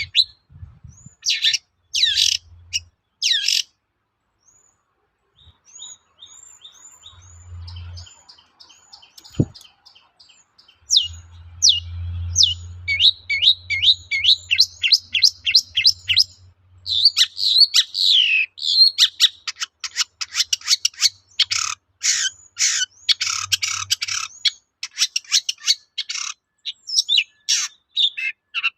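Long-tailed shrike singing a varied song: a few harsh, scratchy bursts, then a run of short whistled notes, and from about eleven seconds in a fast, dense string of chattering and whistled notes.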